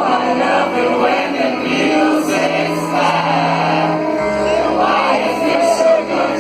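Live rock music: singing, with several voices, over sustained low chords; the bass note drops to a deeper one about four seconds in.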